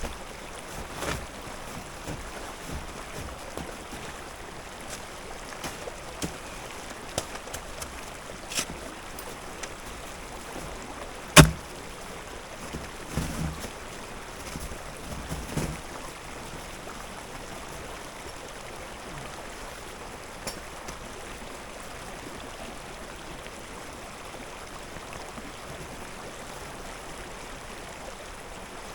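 Small stream trickling steadily. A few scattered knocks and clicks fall in the first half, with one sharp knock about eleven seconds in, the loudest sound.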